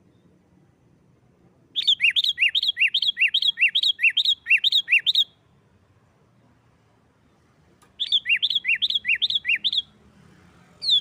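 Sooty-headed bulbul (kutilang) giving its rapid 'nggaruda' fighting call: fast repeated notes, each slurring downward, about three a second. There are two bouts, the first of about ten notes and the second of about six, then a single short high note near the end.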